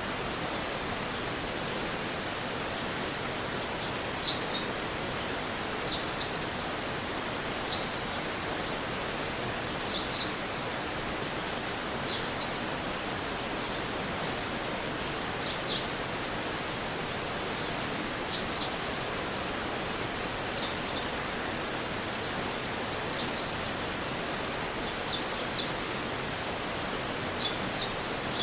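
Stream water rushing steadily, with a short high double chirp repeating about every two seconds.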